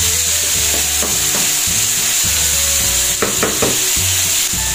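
Chopped garlic, onion and tomato sizzling in hot oil in a nonstick wok while being stirred with a spatula, with a couple of sharper scrapes about three seconds in. The tomatoes are being cooked down until soft.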